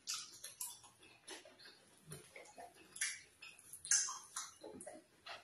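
Close-miked ASMR eating sounds: wet chewing, lip smacks and mouth clicks as a mouthful of fish and soup is eaten by hand. The clicks come irregularly, several a second, with the loudest about three and four seconds in.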